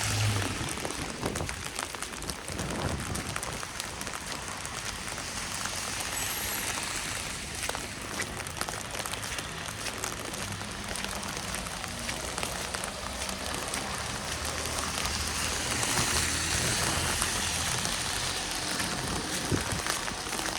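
Steady patter of falling precipitation, many small drops ticking against surfaces over an even hiss.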